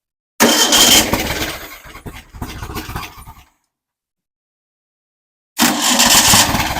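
Engine turned over by its starter in two attempts: about three seconds of cranking, a pause, then a shorter second burst. The engine does not settle into running.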